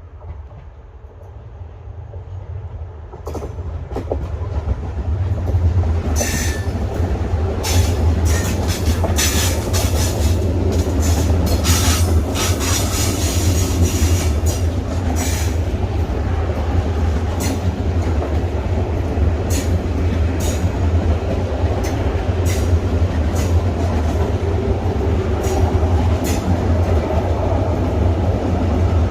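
A train pulling away: a deep rumble that grows over the first six seconds and then runs steadily, with many sharp clicks and clanks from the wheels on the rails.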